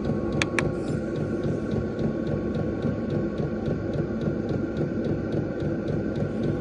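Diesel air heater running steadily: a constant fan and burner hum with a pulsing low rumble, a fast regular ticking and a fixed whine. Two sharp clicks come about half a second in.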